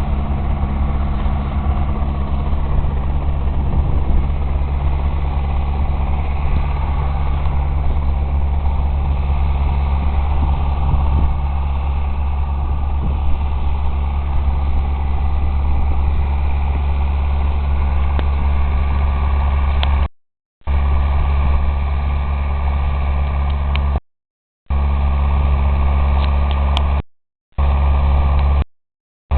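Zetor 6340 tractor's four-cylinder diesel engine running steadily while ploughing, with a deep even drone. The sound drops out abruptly four times in the last ten seconds.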